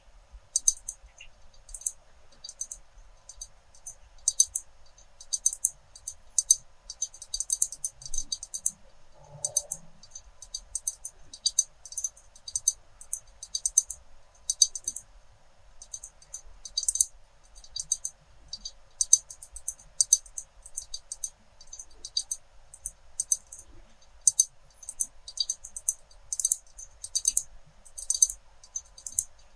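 Glass and pens tapped close to the microphone: light, sharp clicks that come in quick irregular runs.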